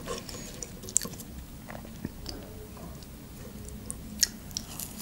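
Chewing McDonald's chicken nuggets close to the microphone: soft wet mouth sounds broken by a few short sharp clicks, the sharpest about four seconds in.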